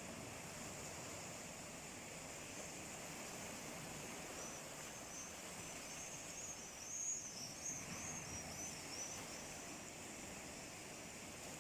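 Steady wash of sea waves. A small bird chirps a quick run of high notes from about four to nine seconds in.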